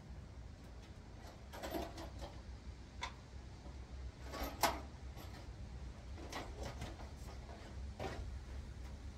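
Scattered light clicks and knocks of metal parts being handled during a manual transmission teardown, the sharpest knock about halfway through, over a faint steady low hum.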